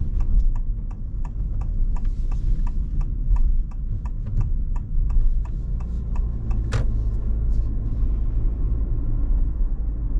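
Road and drivetrain rumble inside the cabin of a Honda ZR-V on the move, with a turn-signal relay ticking about three times a second that stops near the end.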